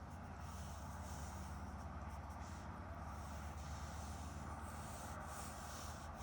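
Pen scratching across paper in short strokes that come and go, over a steady low rumble.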